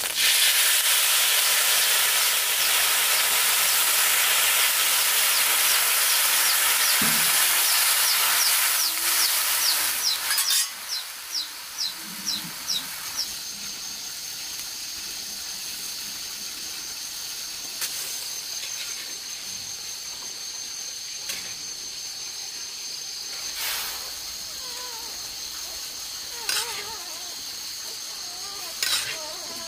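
Food sizzling loudly as it fries in hot fat: a steady hiss that cuts off about ten seconds in. After that only a quieter background remains, with a steady high whine and a few light clicks and knocks.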